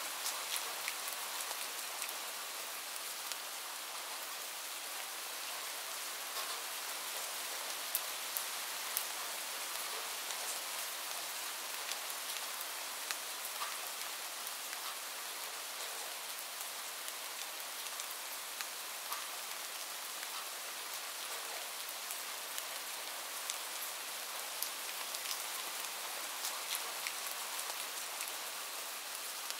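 Light rain falling steadily: an even hiss with scattered sharp ticks of single drops striking close by.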